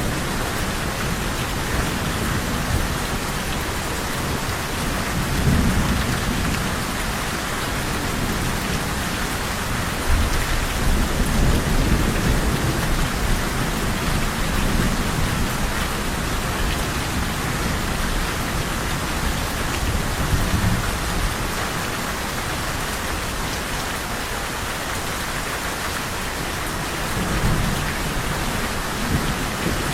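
Steady heavy rain falling, with low thunder rumbling in several slow swells.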